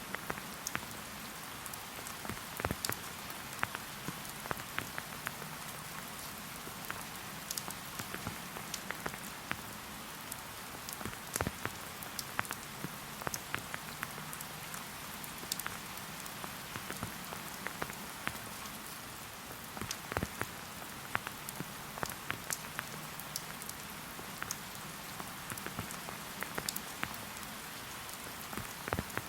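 Steady rain falling: an even hiss with many irregular, close drops ticking sharply.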